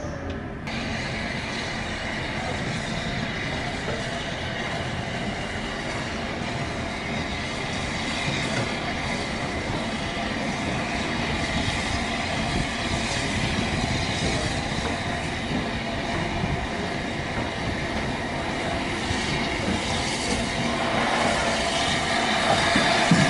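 Heritage steam railway train running on the rails, a steady rolling noise that slowly grows louder.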